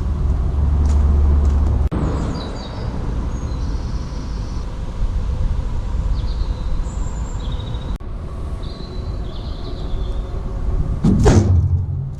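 Wind rumbling on the microphone outdoors, with scattered short high chirps, and one loud bang about eleven seconds in that has the character of a vehicle door or bonnet being shut.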